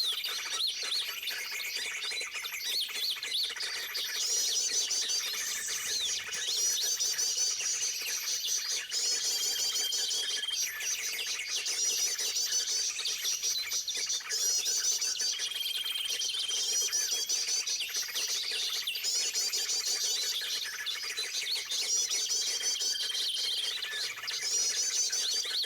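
Small birds chirping in fast, overlapping, repeated high phrases, with a short level whistled note every few seconds.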